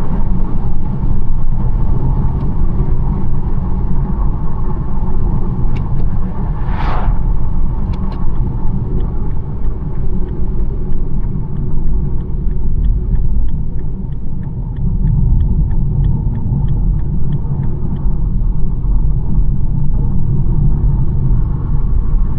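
BMW 1 Series on the move, with a steady low rumble of road and engine noise. A short whoosh comes about seven seconds in, and a run of evenly spaced light ticks, about two to three a second, runs from about thirteen to eighteen seconds in.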